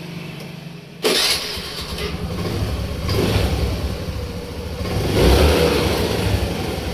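Honda Activa 5G scooter's freshly rebuilt single-cylinder four-stroke engine started on the electric self-starter: it catches with a sudden jump in level about a second in, then runs and is revved up twice. The engine sounds healthy after the rebuild, without the harsh grinding from the starter that was the original complaint.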